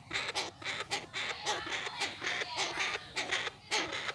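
Chinese francolin calling close by: a run of short scratchy notes, about three to four a second.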